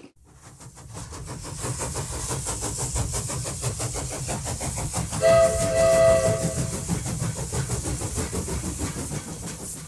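Steam locomotive chugging at a steady rhythm, fading in at the start, with its whistle blowing once for about a second and a half about five seconds in.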